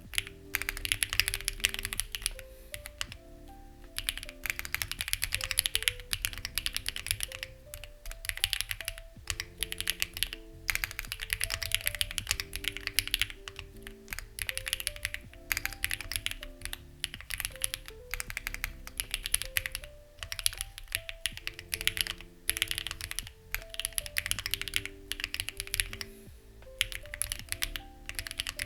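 Fast typing on a Lucky65 v2 mechanical keyboard with stock, unlubed HMX Ziwei switches, a stock plate and stabilizers, and CMK-style keycaps, coming in bursts with short pauses. Soft background music with a simple repeating melody plays underneath.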